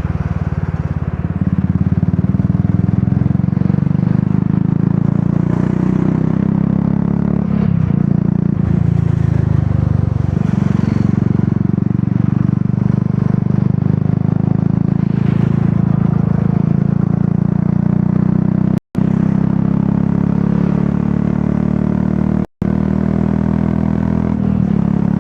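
Royal Enfield Classic 350's single-cylinder engine running steadily through an aftermarket Dolphin exhaust while riding. The sound cuts out completely twice for a split second near the end.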